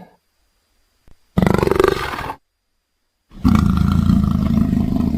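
Big-cat roaring calls from leopard recordings: a short call of about a second, then after a pause a longer one that runs on past the end. Both have a pulsing texture.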